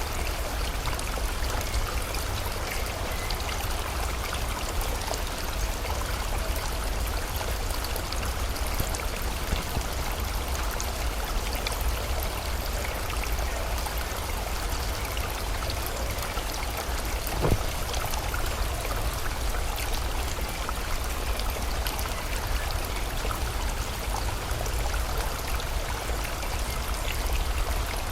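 Steady rush of river water, with a low rumble beneath, and a single brief knock about seventeen seconds in.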